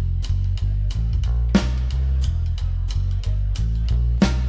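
Rock band playing the instrumental opening of a blues-rock song: a heavy bass line under a steady drum-kit beat, with electric guitar and two cymbal crashes, one about a second and a half in and one near the end.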